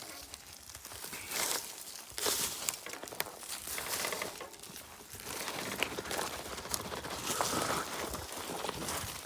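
Irregular rustling and crinkling with many sharp crackles.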